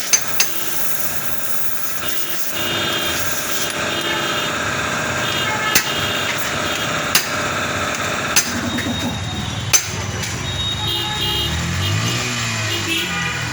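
Motor vehicle engine running, rising and falling in pitch in the last few seconds, with about six sharp clicks or knocks spread through, typical of tool work on a motorcycle engine.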